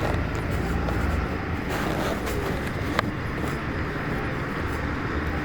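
Steady low rumble of vehicle engines, likely trucks idling or passing, with one sharp click about three seconds in.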